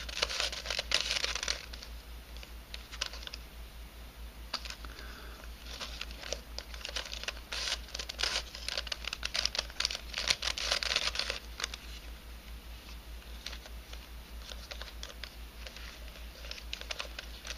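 3D-printed nylon helicopter cube puzzle being twisted by hand: quick runs of clicks and scraping as its pieces turn against each other. The clicking is densest at the start and again from about eight to eleven seconds in, with sparser turns between.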